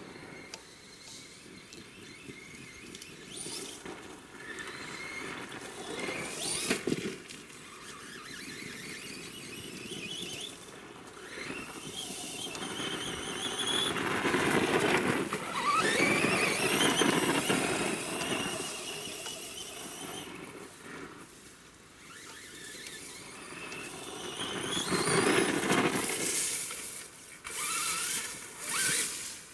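Traxxas BigFoot RC monster truck's electric motor and gears whining, rising and falling in pitch as it speeds up and slows down. It is loudest around the middle and again near the end.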